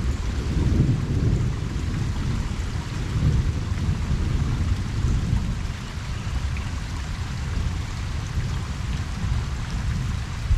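Steady rain falling on a pond, over a low rumble of distant thunder that swells and fades.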